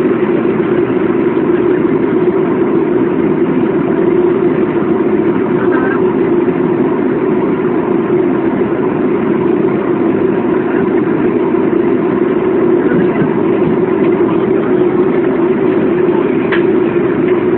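Steady roar of a Boeing airliner's jet engines and rushing air, heard inside the passenger cabin.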